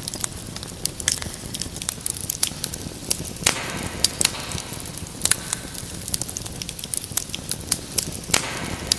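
Wood fire in a fireplace crackling: irregular sharp pops and snaps over the steady hiss of the flames, with a couple of louder pops.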